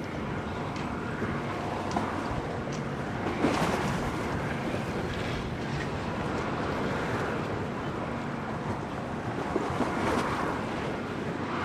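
Storm wind buffeting the microphone over the rush of waves washing against the harbour, with a louder surge about three and a half seconds in.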